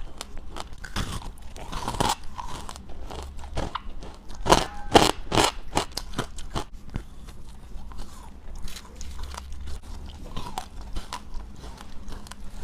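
A person biting and chewing crunchy frozen frost, close to the microphone. The crunches come irregularly, with a run of the loudest ones about four and a half to five and a half seconds in.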